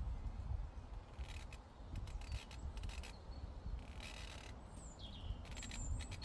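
Bursts of crisp crunching and snipping clicks, typical of a llama cropping and chewing grass close by, over a low wind rumble on the microphone. A few short, high bird chirps, one falling in pitch, come in the second half.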